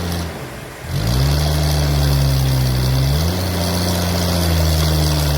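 Engine of a sawmill rising in pitch about a second in after a brief dip, then running steadily under a high hiss, its pitch stepping up slightly a little past halfway.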